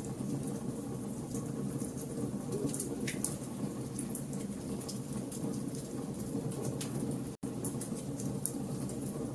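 Campfire of burning logs crackling: scattered sharp pops and snaps over a steady low rumble of the flames. The sound cuts out for a split second about seven seconds in.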